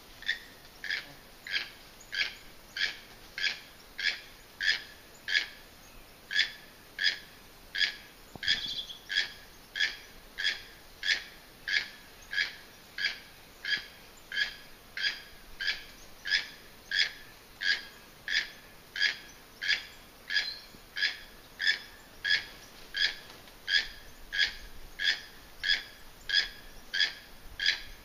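A bird calling a long, steady series of short, evenly spaced whistled notes, nearly two a second.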